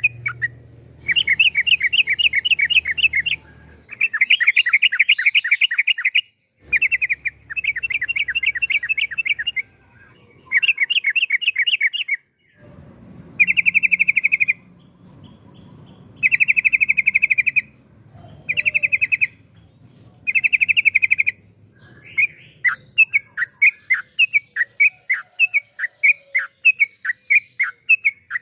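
Yellow-vented bulbul (trucukan) singing long, rapid rolling trills in bouts of one to two seconds with short pauses. Near the end it changes to a quick run of separate falling chirps, several a second.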